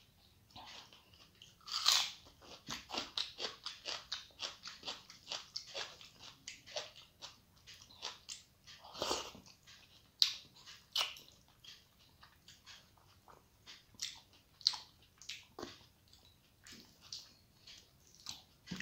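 Close-miked chewing and crunching of a mouthful that includes a bite of raw red onion: a run of quick crunchy chews, several a second, with louder crunches about two and nine seconds in.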